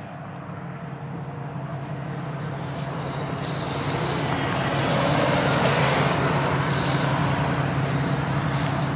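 Car engines running at a street-race start line, a Pontiac Grand Prix GXP and an Infiniti sedan staged side by side. The sound gets louder over the first five seconds, then holds steady.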